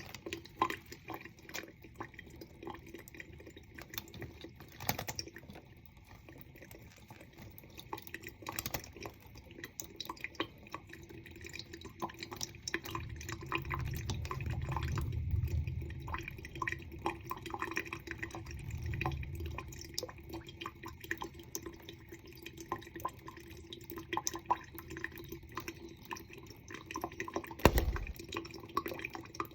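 Water running from a tap and dripping, with many small irregular drips and splashes, as a lovebird bathes under it. A low thump comes near the end.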